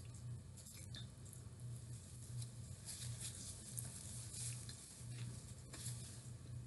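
Close-up mouth sounds of chewing a battered cauliflower wing, with a paper napkin rustling and being crumpled as hands are wiped. A low steady hum sits underneath.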